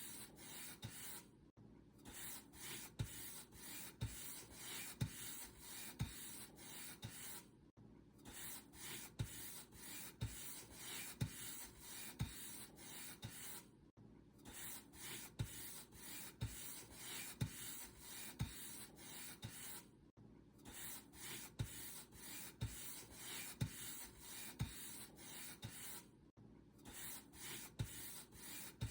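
Paintbrush bristles stroking back and forth over a surface, a soft scratchy rub repeated over and over, with a brief pause about every six seconds.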